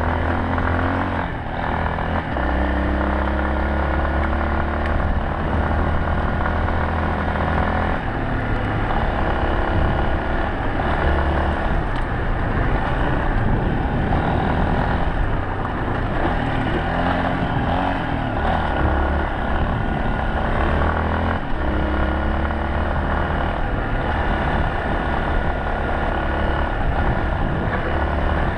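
Yamaha Serow 250's air-cooled single-cylinder four-stroke engine running while the bike is ridden. The engine note holds steady at first and again near the end, and goes uneven in between.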